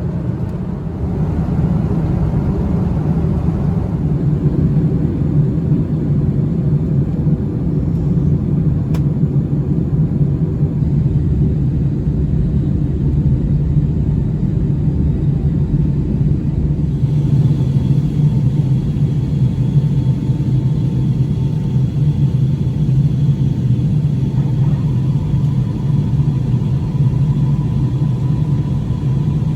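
Steady, loud rumble of a Boeing 757-200's engines and rushing air heard from inside the economy cabin. It grows a little louder about a second in, and a faint steady whine joins it partway through.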